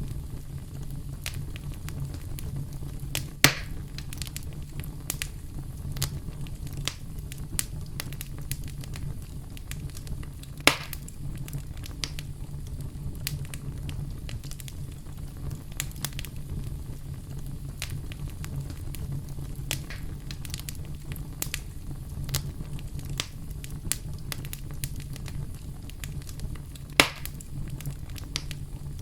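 Wood campfire crackling: frequent small snaps over a steady low rumble of the flames. Three much louder pops stand out, one a few seconds in, one about eleven seconds in and one near the end.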